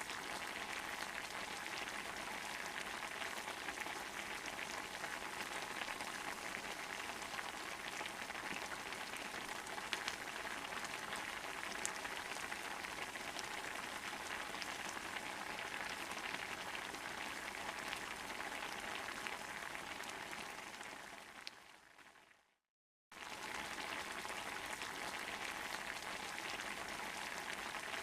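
Wood campfire burning under a cast iron pot: a steady dense crackle and hiss with a few sharper pops. It fades out about 21 seconds in, drops to silence for a moment, then picks up again.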